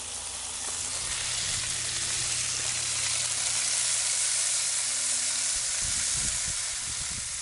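Diced red potatoes and onions sizzling steadily in bacon grease in a cast iron skillet. From about halfway through, a wooden spatula stirs them and scrapes the pan.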